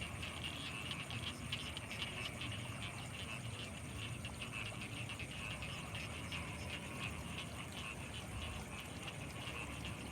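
Night chorus of many frogs calling at once, a dense, unbroken mass of rapid overlapping calls, with a steady high-pitched whine running underneath.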